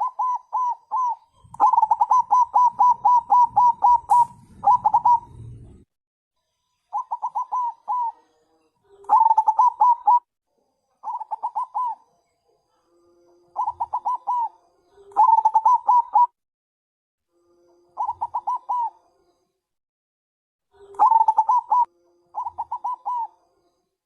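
Zebra dove (perkutut bangkok) calling: about nine phrases of quick, repeated cooing notes, the first long run lasting about four seconds, the rest shorter, with pauses between. A caller-type call, played as a lure to get other perkutut to answer.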